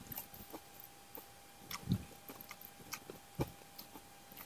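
Quiet chewing and lip smacks of someone eating with their hands, with scattered small clicks. A faint steady tone hums underneath.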